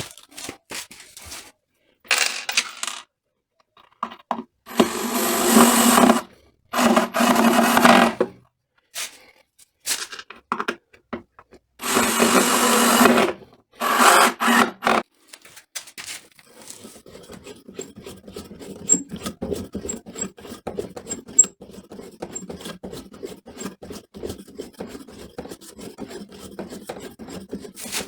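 Hand-tool work in a workshop. Five short, rough rubbing or rasping strokes of about a second each come in two groups, followed by a longer stretch of quieter scraping and light clicking.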